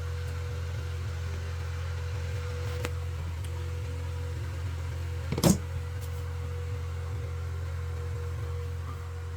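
Vaillant combi boiler running with a steady low hum and a faint thin tone above it. One sharp knock comes about halfway through.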